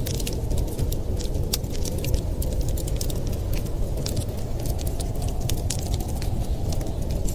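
Wood fire crackling, with many small sharp pops and ticks scattered irregularly, over a steady low rush of blizzard wind.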